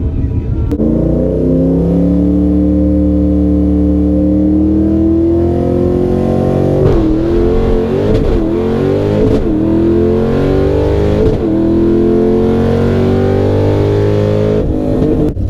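Ford 5.0 V8 in a Fox Body Mustang drag car, breathing through longtube headers and bullet mufflers dumped at the doors, revving hard under full throttle. Its pitch climbs steadily, then drops and climbs back several times in the second half, as at gear shifts.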